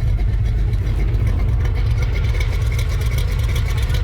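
Truck engine idling steadily through a freshly installed exhaust with a muffler, a deep low rumble, with a faint high whine from the engine's gear drive above it.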